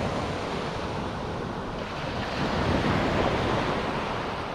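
Surf breaking and washing up the beach, with wind buffeting the microphone; the wash swells a little about halfway through.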